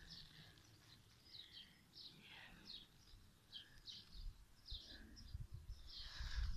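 Faint birds chirping over and over, short high calls every half second or so, over a low rumble that grows louder near the end.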